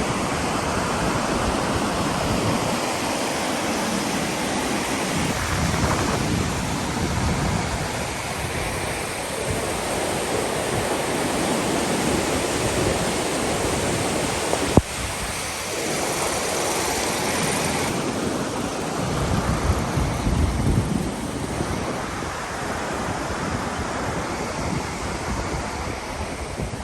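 Steady rush of a fast-flowing mountain river, with gusts of wind buffeting the microphone a few times and a single sharp click about fifteen seconds in.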